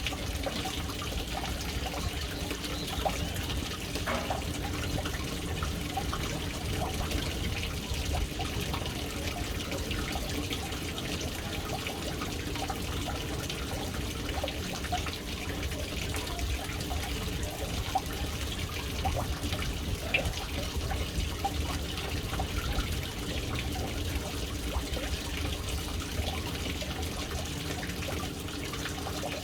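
Water running steadily into a household water tank, splashing and trickling without pause, with small drips and splashes scattered through it.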